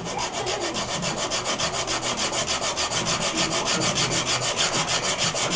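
A hand tool worked rapidly back and forth on wood, about seven scraping strokes a second, as a reproduction molding piece is shaped.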